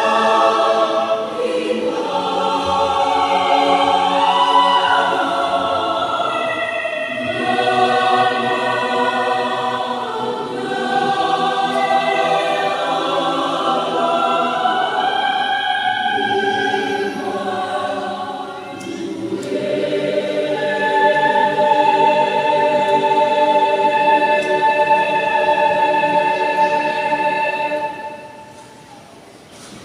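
Youth choir singing in harmony, several voices holding long notes together. The singing stops near the end.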